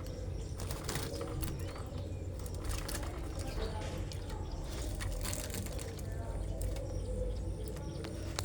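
Small cage birds chirping faintly, with scattered clicks and wing flutters, over a steady low rumble.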